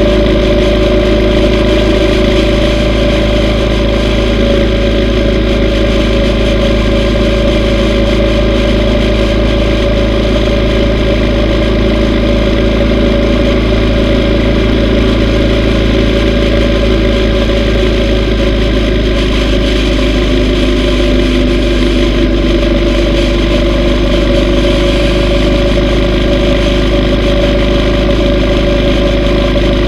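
Yamaha V Star 950's air-cooled V-twin engine running steadily under way, with an even low rush of wind and road noise beneath it.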